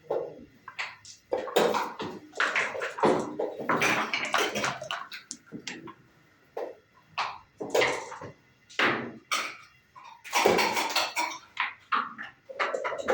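Dice rolling and wooden checkers being clacked down on a backgammon board during play: a series of sharp clicks and short rattles at uneven intervals.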